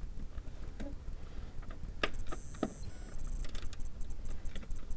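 Small 3/8-drive ratchet clicking in short quick runs, with scattered sharp metal clicks and knocks, as an 11 mm nut is tightened onto a stud.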